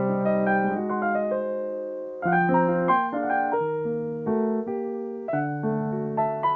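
Solo piano playing slow chords and a melody, with notes held and left to ring and fresh chords struck a couple of seconds apart.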